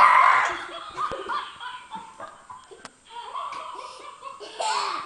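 Belly laughter from an LOL Rollover puppy toy's recorded laugh, set off by motion, loudest right at the start with another loud burst near the end.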